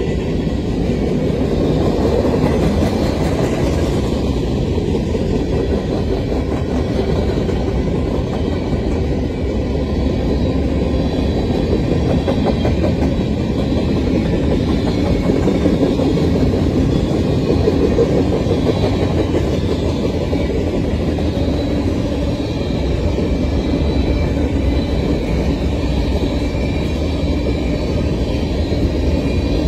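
Freight train cars (gondolas, a tank car and a covered hopper) rolling past at steady speed, a continuous rumble of steel wheels on rail with a faint steady high tone above it.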